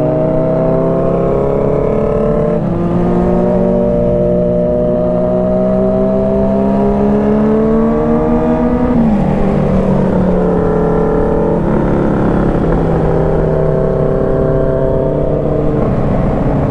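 Kawasaki Z900 inline-four with an Arrow full exhaust system running under way. Its pitch climbs slowly for several seconds, drops sharply about nine seconds in, then holds fairly steady.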